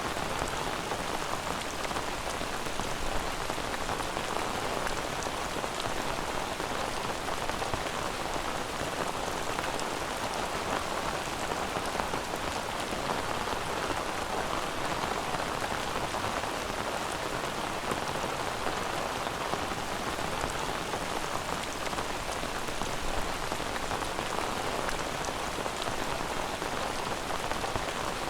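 Steady rain, an even hiss that holds without breaks or gusts.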